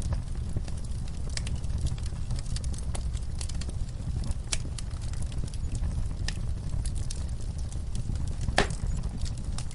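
Wood fire crackling in a fireplace: a steady low rumble with frequent sharp pops and snaps, one louder pop near the end.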